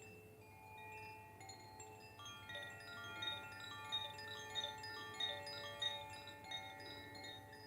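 Koshi chimes ringing softly: many clear, overlapping bell-like notes that sound one after another and linger, growing fuller from about two seconds in.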